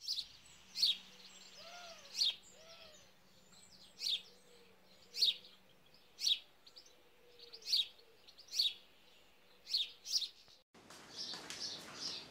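A bird chirping: a sharp, single high chirp repeated about once a second.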